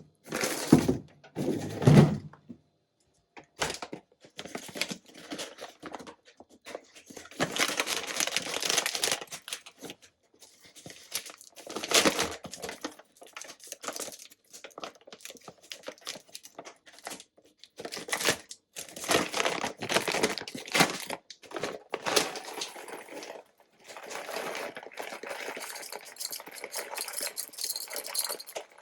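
Irregular rustling and crinkling, with scrapes and a few sharp knocks, as things are handled on a kitchen counter while preparing coffee.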